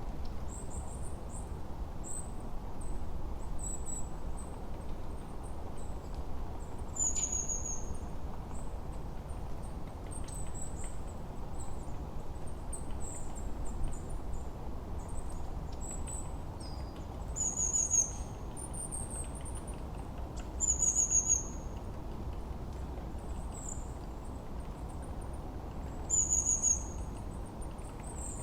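Forest birdsong: small birds repeat short, very high-pitched chirps throughout, and a fast descending trill recurs every few seconds. Beneath the birds runs a steady low background hiss.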